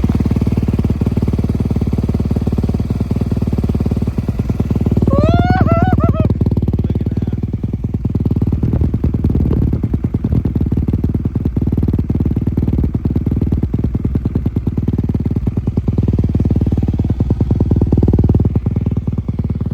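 Dirt bike engine running, revved up twice to a louder swell and settling back in between.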